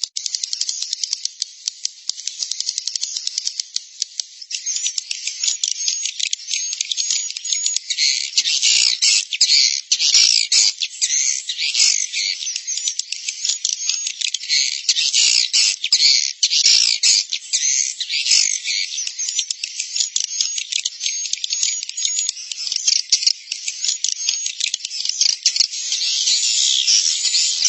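Edible-nest swiftlet roosting-call lure ('suara inap'): a dense chorus of rapid chattering twitters and clicks, built to draw swiftlets in to roost. It thickens and grows louder several seconds in.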